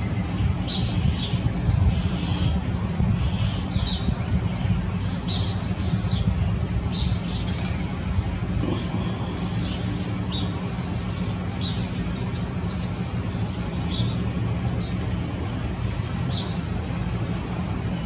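Small birds giving short high chirps about once a second, with a brief high glide right at the start, over a steady low rumble that is the loudest sound.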